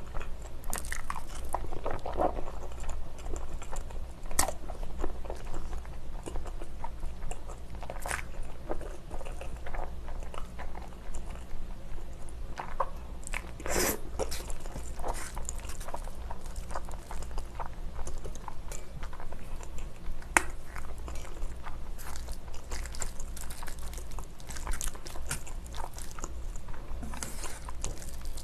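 Close-miked chewing of spicy noodles, with many irregular wet mouth clicks and one louder noisy mouth sound about 14 seconds in.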